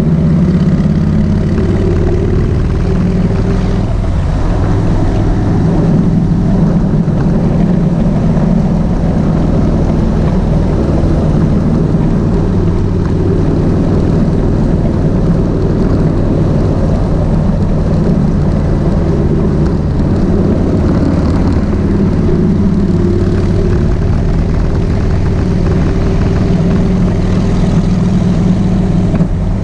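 Kawasaki VN1600 Mean Streak's V-twin engine running steadily at an even, low engine note, heard from the motorcycle itself.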